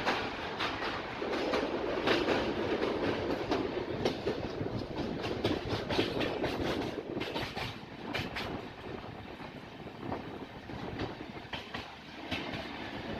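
Passenger train running on the track, a steady rumble with irregular clicks and clatter from the wheels over the rails. It is louder in the first half and eases somewhat after about eight seconds.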